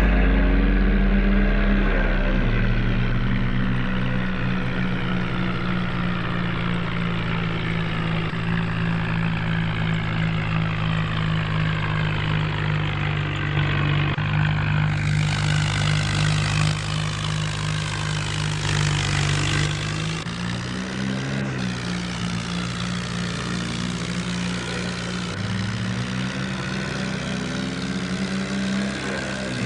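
HMT tractor's diesel engine running steadily, its pitch shifting a few times as the engine speed changes: shortly after the start, about two-thirds of the way through, and again a little later.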